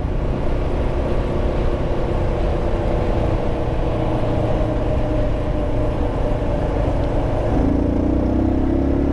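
Motorcycle engine running under way with steady wind and road noise. From about seven and a half seconds in, the engine note rises steadily as the bike speeds up.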